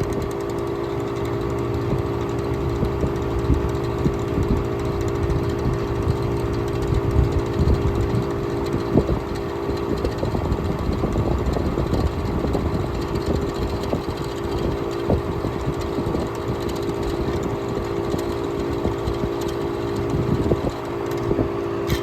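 1967 Chrysler Imperial's 440 V8 idling with its Chrysler Airtemp air conditioning running: a steady hum with a few held tones over an uneven low rumble.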